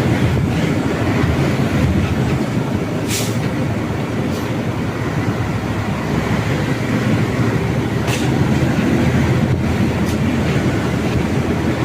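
Mitsubishi Fuso truck's diesel engine running steadily while driving on the road, with road rumble. A couple of brief clicks sound about three seconds in and again about eight seconds in.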